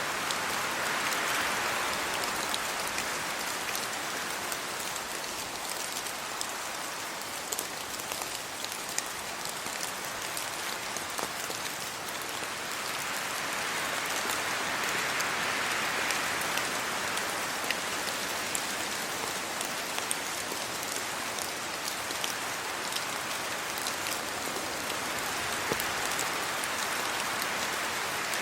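Steady rain falling on trees, leaves and the road, with many single drops ticking close by. Slow swells come and go about every twelve to fourteen seconds, as the wind blows through the trees.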